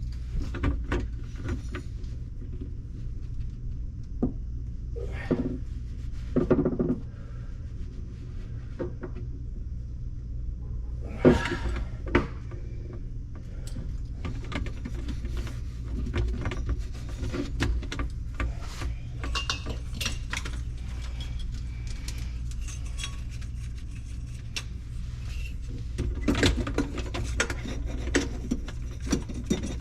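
Irregular clicks, clinks and knocks of tools and drain parts being handled during plumbing work under a kitchen sink, a few louder knocks among them, over a steady low hum.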